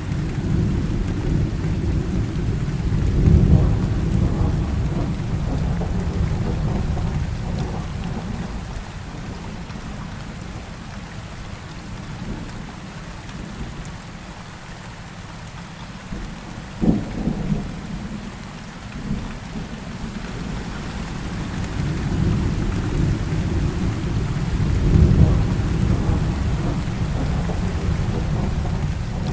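Heavy rain falling steadily, with rolling thunder. The rumbles swell twice, and a sharp crack of thunder comes a little past halfway.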